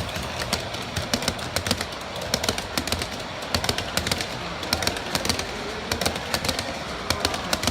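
G scale model train running on its track, with many irregular sharp clicks and rattles from the wheels over the rails and joints, over a steady rumble.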